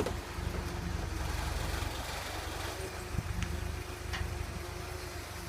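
Engine of the boat lift idling steadily, a low even hum, with a few light clicks over it.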